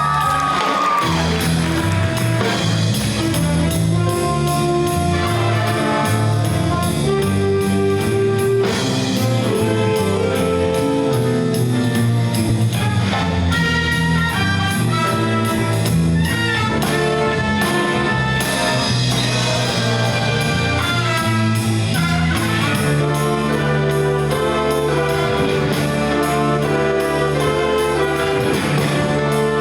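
A school ensemble playing live, jazz-band style: brass and saxophones over a steady beat.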